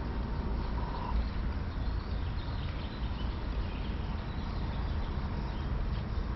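Wind buffeting the microphone with a steady low rumble, and faint birds chirping.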